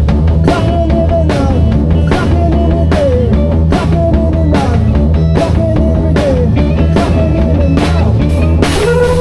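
Live rock band improvising: a drum kit keeps a steady beat with a hit about every half second over a repeating low bass line. Above them a lead line slides and bends between notes.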